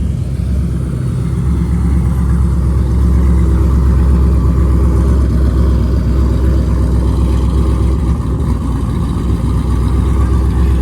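A car engine running steadily with a loud, low drone and no sharp revving.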